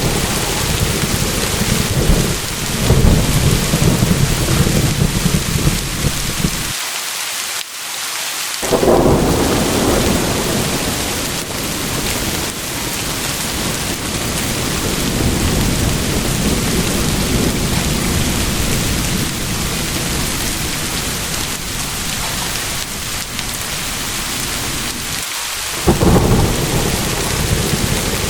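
Steady heavy rain with thunder rumbling repeatedly underneath, the deep rumbles swelling and fading several times; the low rumble drops away for about two seconds near the middle, leaving only the rain.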